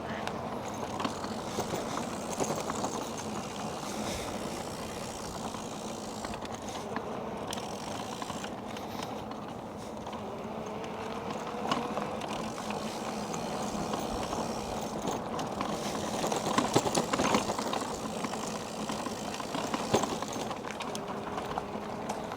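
E-bike ride heard from the rider's camera: steady tyre and wind noise with light rattles and clicks from the bike, and a faint rising whine near the middle.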